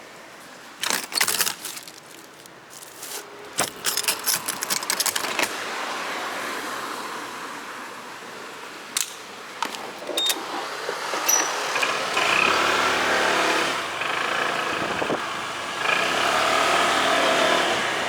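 Clicking and rattling in quick clusters, like keys and handling, then from about twelve seconds in a motorcycle engine running, its pitch rising and falling.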